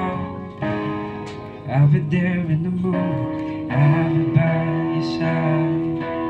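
Live slow ballad intro: acoustic guitar accompanying a low voice singing long, wordless held notes. The recording is rough and unpolished.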